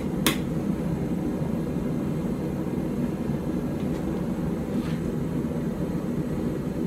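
One hammer blow on the blade at the anvil just after the start, then a forge running with a steady low noise.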